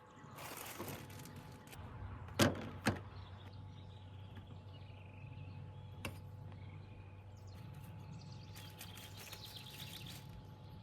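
Two sharp knocks a moment apart, then a lighter click, over a steady low hum, with faint bird chirps.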